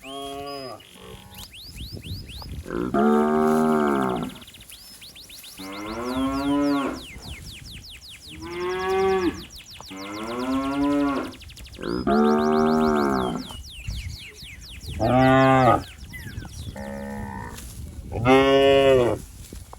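A calf mooing over and over, about nine long calls with a second or so between them, some falling in pitch at the end: a calf calling for its mother.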